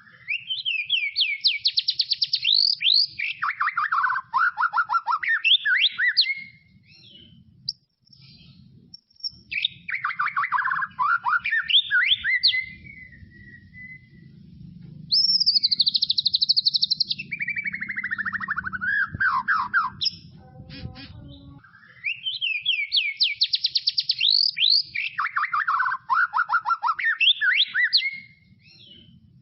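White-rumped shama (murai batu) singing: four long phrases of rapid repeated notes, each sweeping down from high to lower pitch, with short pauses between phrases.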